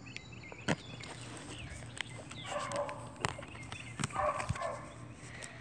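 A dog barking in two short bouts, about two and a half and four seconds in, with a few sharp clicks and knocks.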